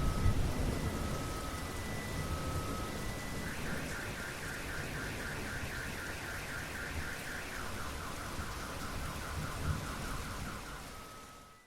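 A car alarm sounding through steady rain, cycling through its tones: alternating two-note beeps, then a rapid warble of about five pulses a second, then a lower, faster pulsing. Thunder rumbles low at the start, and everything fades out just before the end.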